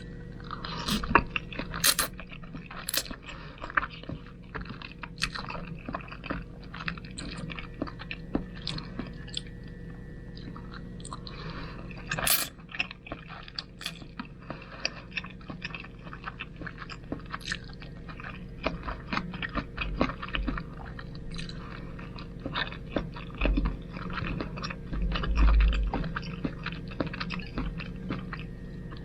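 Close-up eating sounds of spaghetti: wet chewing and mouth smacks with many small clicks and slurps, and occasional utensil scrapes.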